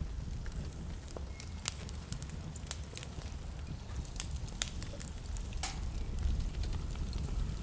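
Wood fire burning in a fireplace: a low steady rumble of flames under irregular sharp crackles and pops, one louder pop near the end.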